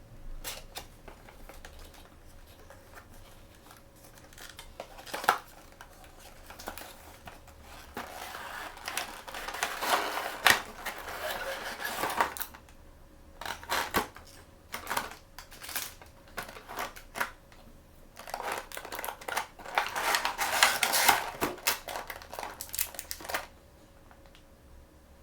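Blind-bag and box packaging being handled and opened close to the microphone: scattered clicks and taps, with two longer spells of crinkling and tearing, the first about a third of the way in and the second about three quarters of the way in.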